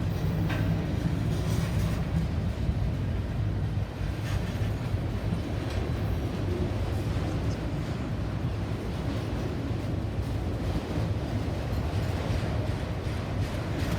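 A train passing: a steady low rumble with scattered faint clicks.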